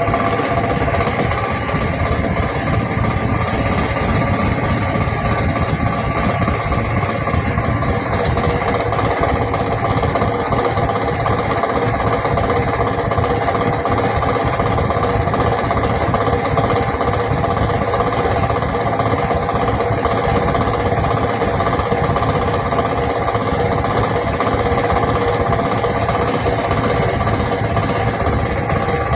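24 V DC railway-coach fan running with a steady whine and rapid rattle over a constant rumble. This is the odd fan noise that the uploader puts down to low voltage or a motor fault.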